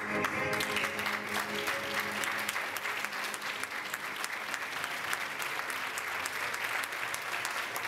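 Audience applauding, dense and steady, over the last held notes of a piece of music that fade out in the first few seconds.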